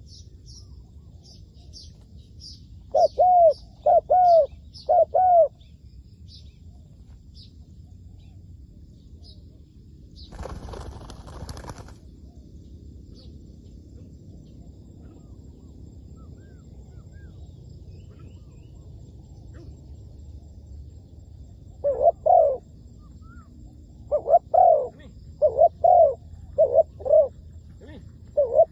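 Spotted dove cooing: a phrase of four coo notes about three seconds in, then a longer run of repeated coos from about 22 seconds on. A small bird chirps high and faintly in the first few seconds, and a brief rustle comes at about 10 seconds.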